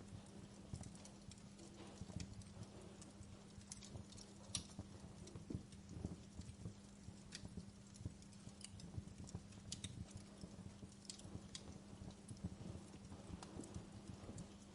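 Faint wood fire crackling in a fireplace: irregular sharp pops and snaps from burning logs over a low rumble, with a steady low hum underneath.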